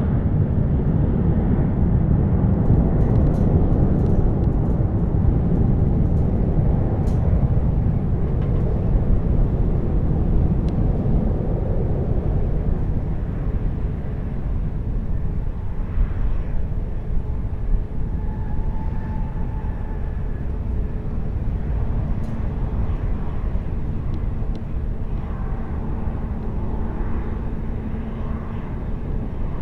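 Jet airliner engine rumble, fading gradually over the first dozen seconds and then settling into a lower, steady rumble.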